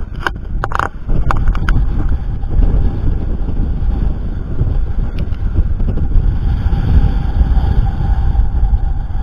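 Wind buffeting the microphone aboard a sailing yacht under way: a steady, heavy low rumble, with a few sharp clicks or knocks in the first two seconds.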